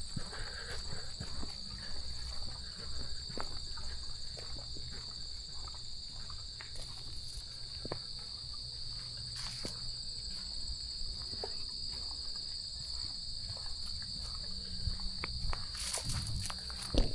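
A steady, high-pitched chorus of insects: one unbroken drone, with a fainter higher layer above it. Scattered footsteps on a trail sound underneath.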